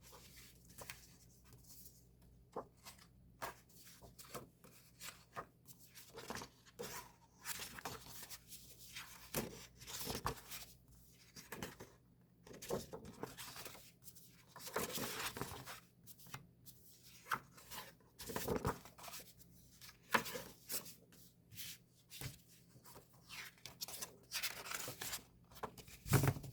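Paper and plastic album packaging being handled and opened: a run of short rustles, tears and scrapes, with a sharp click near the end.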